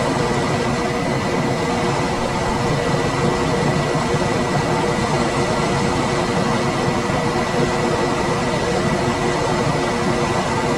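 Room air conditioner running steadily: the even rush of its fan with a constant hum and a thin high tone above it.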